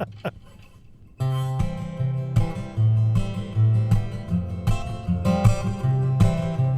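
Acoustic guitar played through a reverb pedal, starting about a second in with strummed chords over changing bass notes as the song's intro.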